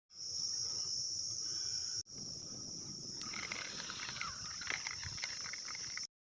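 Insects chirring steadily in a high-pitched, unbroken band over a faint low rumble and scattered light clicks. The sound drops out for an instant about two seconds in and cuts off abruptly near the end.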